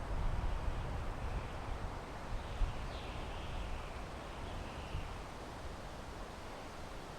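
Wind blowing through pine trees: a steady rushing hiss over a low, gusty rumble that is strongest in the first couple of seconds and then eases.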